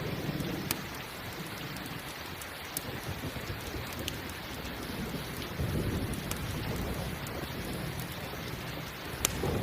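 Steady rain mixed with a crackling campfire: a few sharp pops stand out over the hiss, and a low rumble swells up twice, near the start and again just past halfway.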